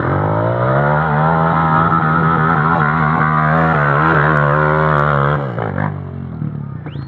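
Off-road motorcycle engine under throttle, its pitch rising at the start and then held, wavering, for about five seconds before it drops away.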